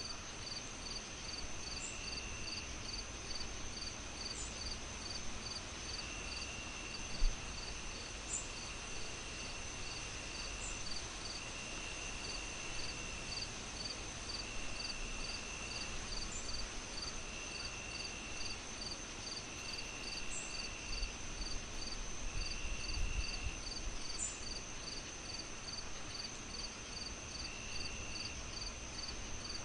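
A chorus of crickets and other insects at night. One high insect pulses evenly, about three chirps a second, over a steady high whine, while another trills in bursts of about a second. A single low thump comes about seven seconds in.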